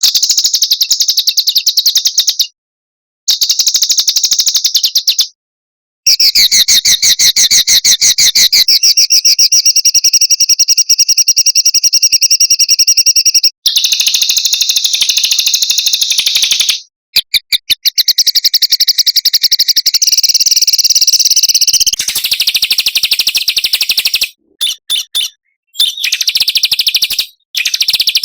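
Small songbirds singing dense, rapid trills and strings of sharp repeated chips, high-pitched and loud. The sequences are edited together into a tutoring ('masteran') track, so the song stops dead several times, about 2.5 s and 5.5 s in and again after about 13.5, 17 and 24 s, then resumes.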